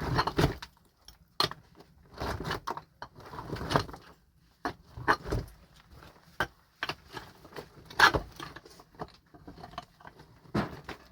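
Irregular knocks and clinks of hard objects being handled, with short scrapes between them, about a dozen over the span.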